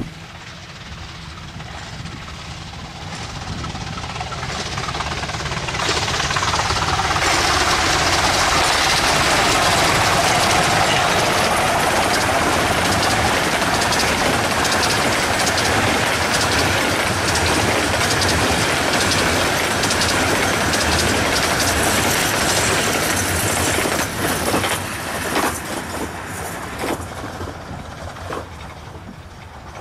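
A 15-inch-gauge miniature steam-hauled passenger train passing at speed. It grows louder as it approaches and stays loud through the middle while the long rake of coaches clatters over the rail joints. It fades to a few last wheel clicks near the end.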